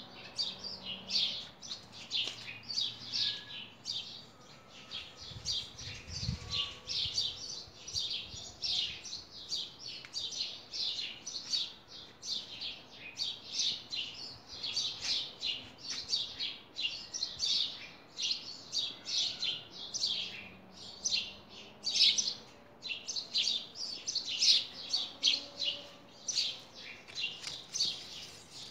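Small birds chirping continuously: a dense chorus of quick, short, high-pitched calls, with a faint low thump about six seconds in.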